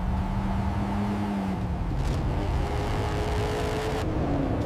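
Car engine running hard: a steady drone under a dense rushing noise, with a tone that slides down in pitch near the end.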